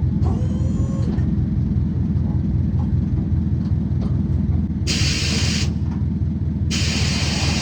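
Steady low rumble of a car on the move. A rushing hiss cuts in abruptly about five seconds in, drops out, and returns about a second later.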